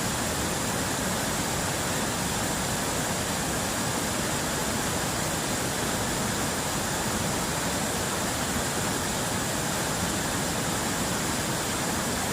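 River water rushing, a steady unbroken hiss.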